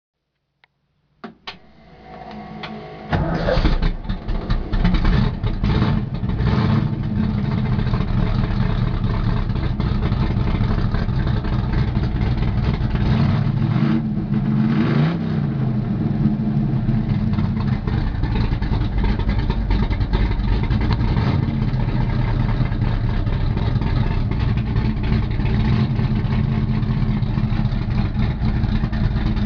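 1970 Ford Mustang Boss 302 race car's 302 cubic-inch V8 being cranked over by the starter and catching about three seconds in. It is blipped sharply several times, then settles into a steady idle, with one rev rising and falling about halfway through.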